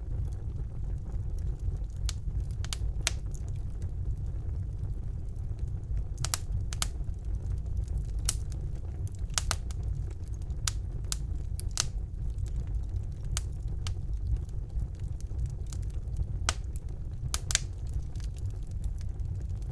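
Wood fire burning in a fireplace: a steady low rumble of the flames with sharp, irregular crackles and pops from the burning logs, a few a second.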